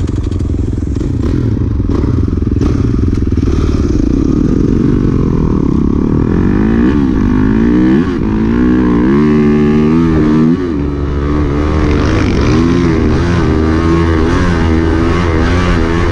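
Dirt bike engine running hard while being ridden, the revs rising and falling again and again as the throttle is worked, over a constant low rumble.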